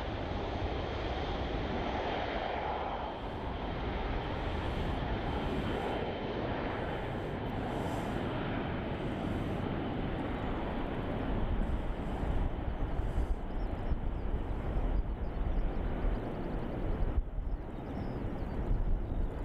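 B-52 bomber's eight jet engines running: a continuous rushing noise with a deep rumble. The noise is steady at first and grows uneven, with rises and dips in loudness, from about halfway through.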